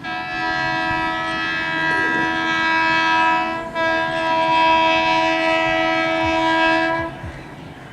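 Electric locomotive's air horn sounding two long, steady blasts with a brief break between them, the second ending about a second before the close.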